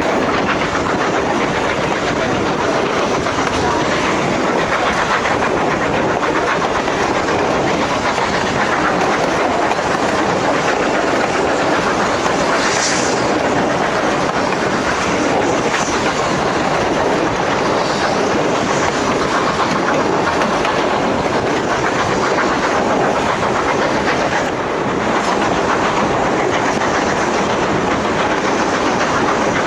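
Narrow-gauge passenger train rolling along the track: a steady rumble with the continuous clatter of wheels on rail, and a short high-pitched sound about thirteen seconds in.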